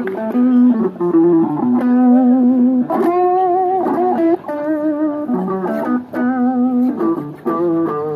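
Guitar music: a melody of plucked notes, some held with a wavering pitch, over lower bass notes.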